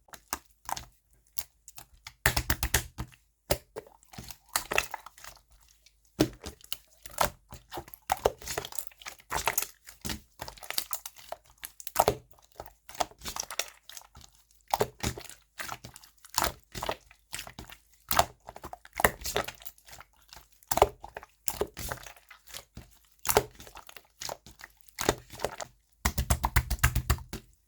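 Yellow yogurt-style slime being squeezed, poked and stretched by hand, giving many short sticky crackles and pops. There are runs of rapid popping about two seconds in and near the end.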